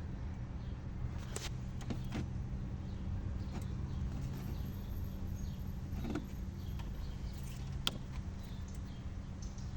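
Car engine idling steadily with a low hum, a few faint clicks heard over it.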